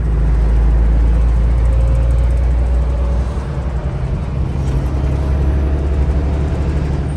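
Heavy truck engine running close by: a loud, steady low rumble with a faint whine that slowly rises in pitch partway through.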